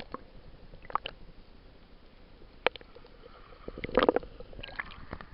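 Sea water splashing and sloshing, with a few short, sharp splashes about one, two and a half, and four seconds in.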